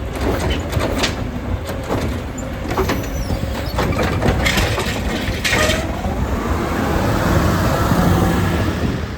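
Heil Rapid Rail side-loading garbage truck at work: several knocks and clanks, two short bursts of air hiss about halfway through, then the engine and its hydraulics rising in a whine.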